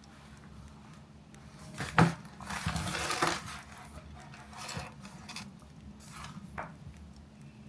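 Small hard objects handled on a desk: one sharp knock about two seconds in, then about a second of clattering, and a few lighter taps later.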